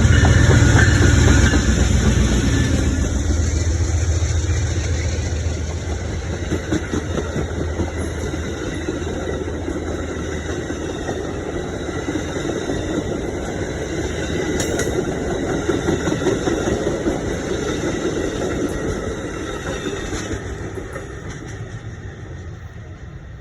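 A passing train: a diesel locomotive's low engine rumble fades over the first few seconds, then the steady rolling noise of rail cars going by continues and dies away near the end.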